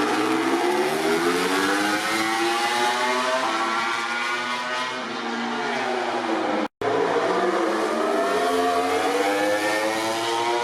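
MotoGP racing motorcycle engines running at high revs, rising in pitch as they accelerate, with the pitch sweeping down in the middle. The sound cuts out sharply for a moment about two-thirds of the way through, then engine sound rising in pitch again.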